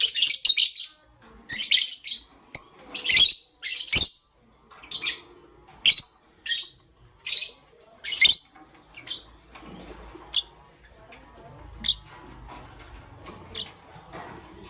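Lovebirds chirping: a quick run of short, high chirps for the first eight seconds or so, then only a few scattered chirps.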